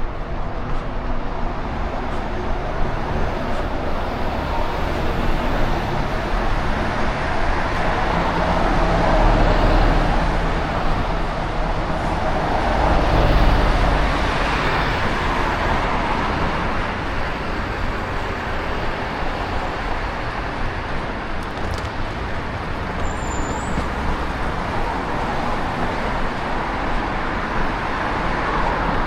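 Steady road traffic noise, with two louder swells of passing vehicles about a third of the way in and near halfway.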